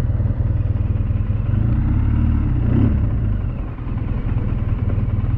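BMW R1200GS flat-twin engine running steadily as the motorcycle is ridden, with a brief dip in level a little before four seconds in.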